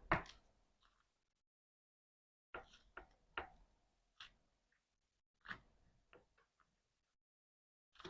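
Slime being pressed and pulled by hand, making clusters of short sticky clicks and pops with dead silent gaps between them.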